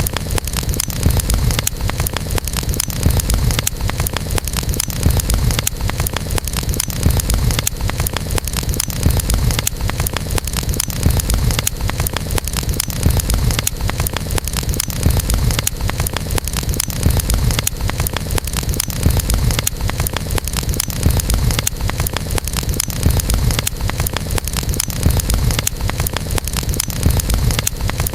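Campfire burning, with dense steady crackling over a low rumble.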